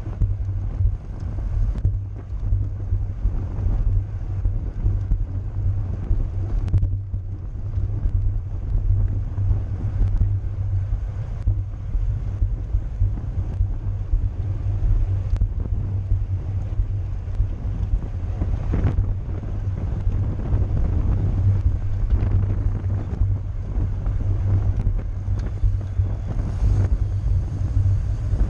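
Wind buffeting the microphone of a camera riding along at racing speed on a bicycle: a steady low rumble of rushing air, with a few brief clicks.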